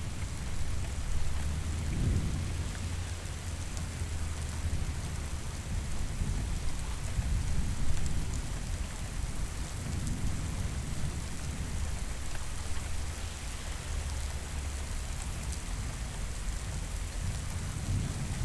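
Steady rain falling, with low rolling thunder rumbling in slow swells, loudest about two and eight seconds in.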